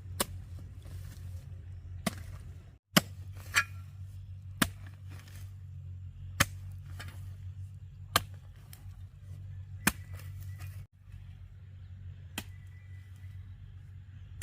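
Repeated sharp chopping strikes of a hand tool, one every one to two seconds, over a steady low hum.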